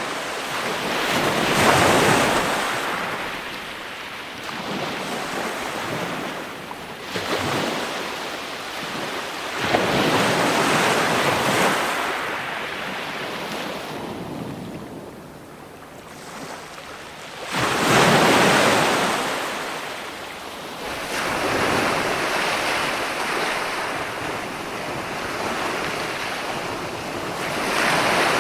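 Ocean waves breaking on the shore: a loud surge of surf every eight seconds or so, each washing away before the next.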